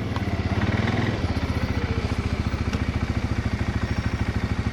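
An engine idling with a steady, rapid, even pulse.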